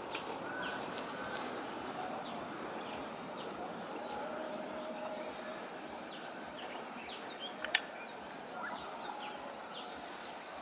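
Birds calling outdoors: short high chirps repeating about once a second over a steady background hiss, with a thinner, higher repeated note above them. A single sharp click about three-quarters of the way through.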